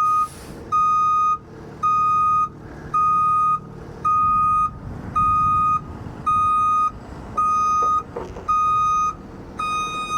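Heavy vehicle's backup alarm beeping steadily, about one beep a second, as the truck reverses, with the engine running underneath.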